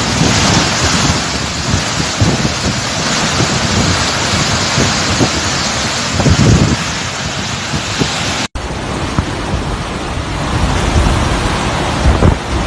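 Hurricane-force wind blowing with driving rain, gusts buffeting the microphone in irregular low rumbles. The sound cuts out for an instant about eight and a half seconds in, then the same wind and rain continue.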